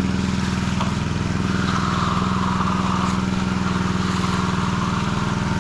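An engine running steadily at a constant speed, with a brief hiss partway through.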